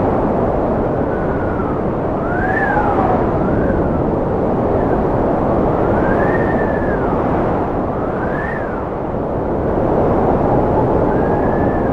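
Strong cold wind blowing steadily, with a howling whistle that rises and falls in pitch every couple of seconds.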